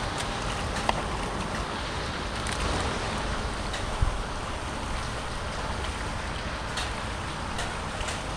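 Floodwater rushing steadily into a street culvert, with scattered small clicks and a short low thump about four seconds in.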